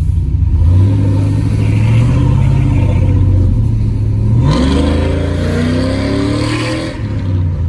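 Cammed 5.3 L GM V8 pickup engine with a Carven R-series muffler accelerating under throttle. Its exhaust note picks up, then about halfway through the revs jump and climb steadily before dropping off near the end.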